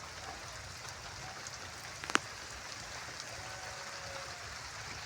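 Steady rain falling, an even patter with one sharp tap about two seconds in.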